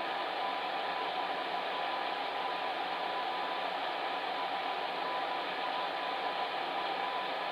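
Electric fan heater running steadily: an even whoosh of blown air with a faint constant hum in it.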